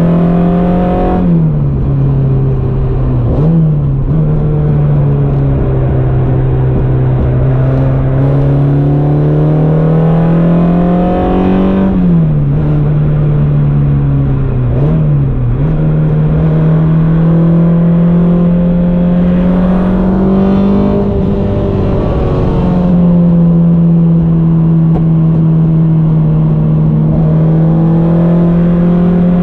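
Modified Peugeot 106 Quicksilver's engine heard from inside the cabin, running hard at high revs with its note climbing slowly. The pitch dips sharply about five times, at gear changes and lifts, over steady road and tyre noise.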